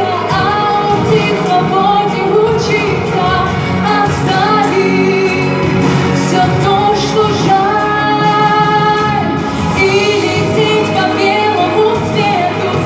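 A song: a sung melody with held, gliding notes over a full instrumental accompaniment.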